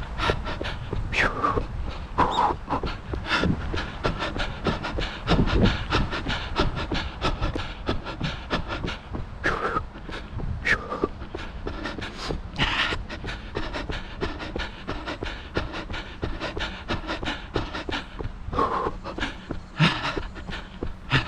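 A runner's footsteps, about three a second, with heavy panting breaths.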